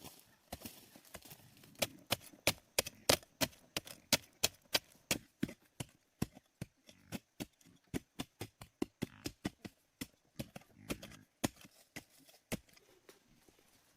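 A tool striking wood in a rapid run of sharp knocks, two or three a second, that grow sparser and fainter in the second half.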